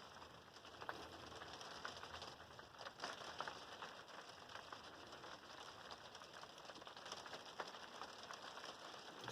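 Rain falling on a camping trailer's roof, heard from inside: a faint steady hiss dotted with many small, irregular ticks of drops.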